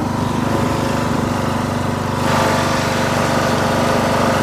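Engine of a riding lawn tractor running steadily while it is driven; about two seconds in the sound grows louder and brighter.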